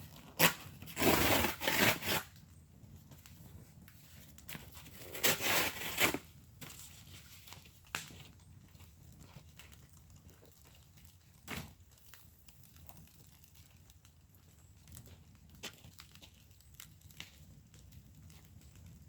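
Wood fire in a fire pit crackling, with scattered sharp pops. Two louder noisy bursts, each about a second long, come near the start and around five seconds in.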